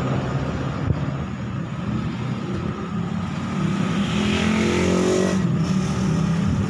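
Motor vehicle engine running steady, with a rising engine sound about four seconds in whose pitch then falls away, as of a vehicle passing by.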